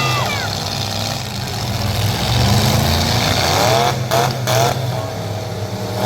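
Truck engine running loud, with a rev that rises and falls about halfway through.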